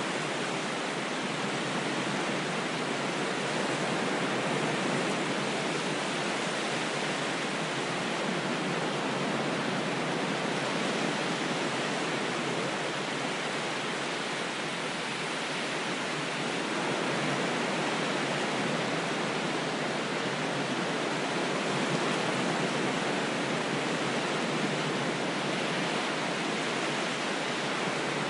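Steady, even rushing noise like water or surf heard as a constant wash, with no rise and fall of individual waves breaking. The deep bass is cut away.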